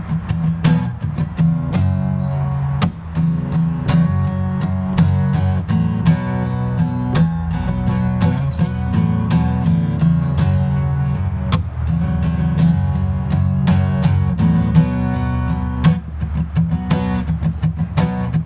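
Acoustic guitar strummed in a steady rhythm, an instrumental break between sung verses of a song.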